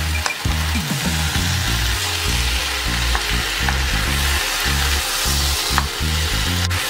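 Chopped tomatoes and onions sizzling in a pot while being stirred with a wooden spoon, with a few light knocks of the spoon. Background music with a bass line plays under it.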